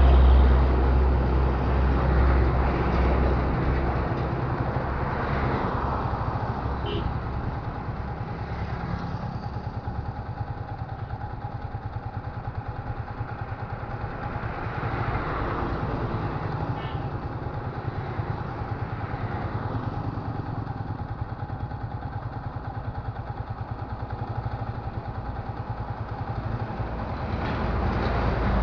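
Container trucks driving past on a road, their engine rumble and tyre noise swelling and fading as each one passes. The rumble is loudest at the start and again near the end.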